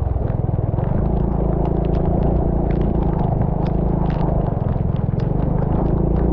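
A vehicle's engine running steadily under way, with many short sharp ticks scattered over it.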